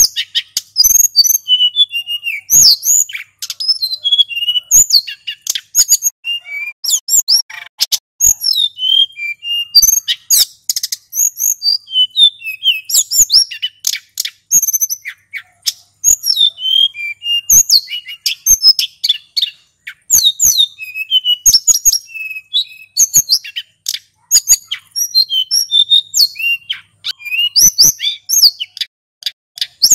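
Male sulingan gunung singing a continuous, fast run of high-pitched whistled and twittering notes, with many short sharp clicks among them.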